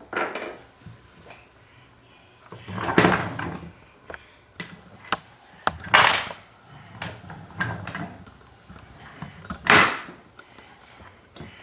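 A toddler banging a toy hammer on the nails of a toy workbench: four heavier knocks a few seconds apart, with lighter taps in between.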